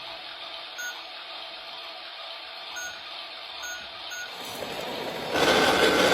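Washing machine beeping four times, short single-pitch beeps at uneven intervals over a steady low hum. About five seconds in, a much louder steady rushing noise starts abruptly.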